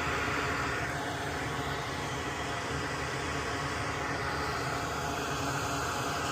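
Steady rushing background noise, even throughout, with no distinct clicks or knocks.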